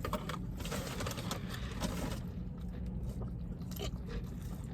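Close-miked eating sounds: chewing and crunching with scattered crisp clicks and scrapes, busiest in the first two seconds.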